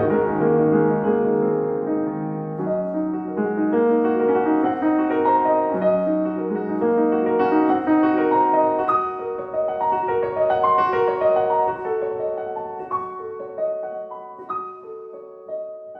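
Solo piano playing a slow, calm classical-style piece of held chords and single notes, growing quieter over the last few seconds.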